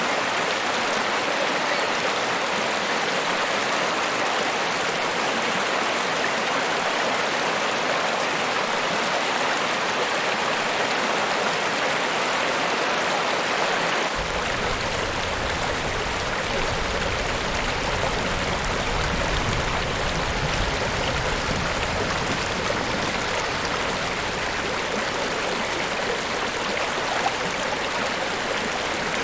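Niagara Falls: a steady, unbroken rush of falling water. About halfway through, a deep low rumble joins in under the rush.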